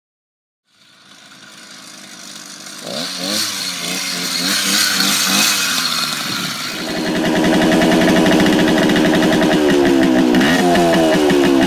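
Small single-cylinder engines being revved. First a motorized bicycle's engine picks up, its pitch rising and falling as it speeds up. Then, from about seven seconds in, a small dirt bike's engine runs louder and steadier, with quick revs up and down near the end.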